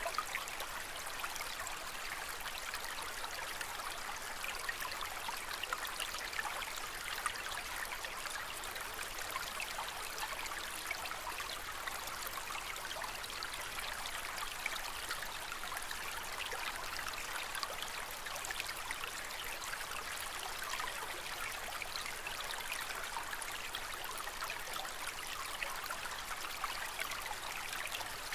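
Aquarium water trickling steadily with a fine, even patter and no pauses.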